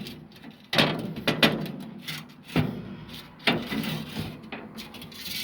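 Several sharp knocks and scrapes, about one a second, from handling close to the microphone.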